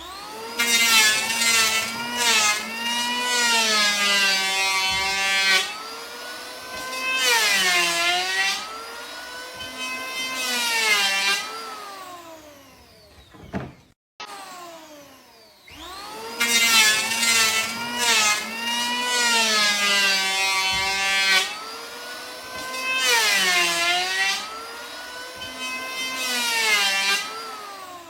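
Buzzy, electronic-sounding pitched tones gliding up and down in pitch, a phrase of about fourteen seconds played twice over. No waterfall rush can be heard under it.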